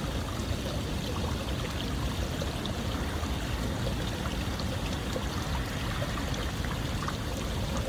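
Steady rushing of flowing water with small splashes and trickles scattered through it.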